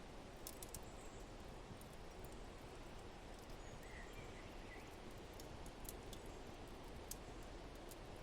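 Wood fire crackling with scattered sharp pops over a steady soft hiss, and a faint bird chirp about four seconds in.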